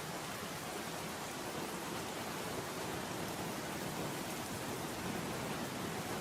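Steady rain falling, an even hiss with no distinct drops, crackles or thunder standing out.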